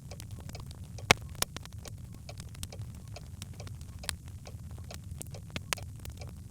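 Birch logs crackling in a fireplace: scattered small pops and snaps over a low steady rumble, with one sharp loud pop about a second in.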